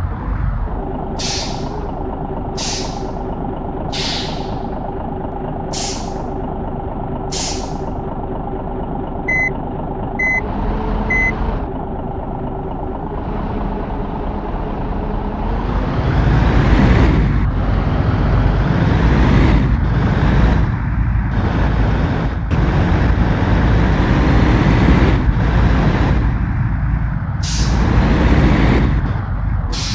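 Truck diesel engine running, with repeated short hisses of air and three short beeps about a second apart. The engine grows louder and rougher about halfway through, as if revving under load.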